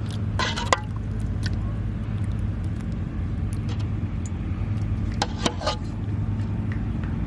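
A steady low rumble runs throughout. Short clinks, like utensils on a dish, come about half a second in and again around five seconds in.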